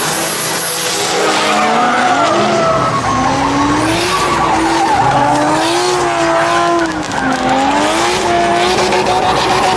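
A car engine revving hard, its pitch swinging up and down, with tires squealing as the car spins its wheels.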